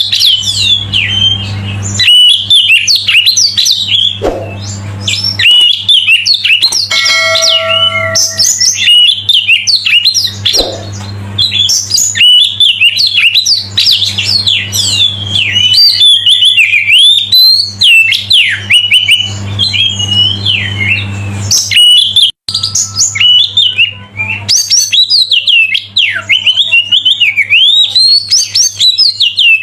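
Oriental magpie-robin (kacer) singing a long, varied run of rapid whistles and chirps, over a steady low hum.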